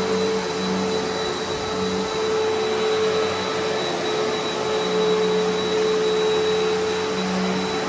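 Eureka Altima upright vacuum cleaner running steadily on carpet, its motor giving a constant whine over a rushing airflow, with a lower hum that wavers as it is pushed back and forth.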